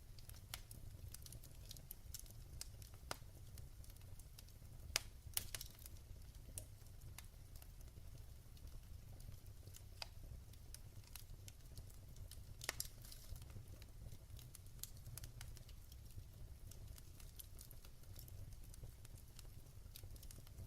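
Wood fire crackling in a fireplace: irregular sharp pops and snaps, a few louder ones about five and thirteen seconds in, over a low steady rumble of the flames.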